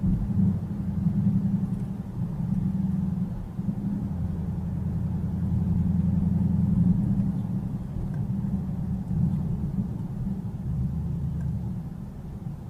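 Low, steady rumble of a car on the move, engine and road noise, that swells and eases a little without any sharp impact.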